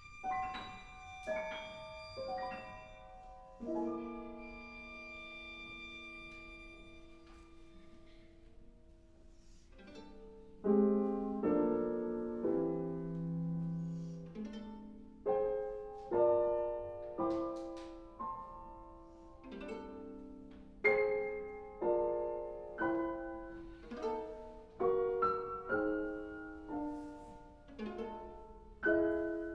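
Live chamber music for viola and piano. A few separate ringing notes open the passage, then come several seconds of held tones, and from about ten seconds in the piano strikes chords roughly once a second, each one dying away.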